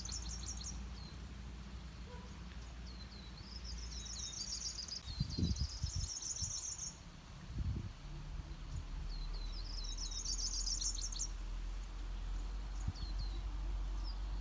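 A songbird singing a fast trilled phrase, repeated about every four seconds, with short high notes between the phrases, over a low steady rumble of forest ambience. Two dull thumps come about five and a half and seven and a half seconds in.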